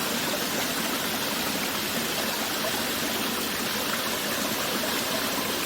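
Steady, even rush of running water, like a stream, with no music or other events heard over it.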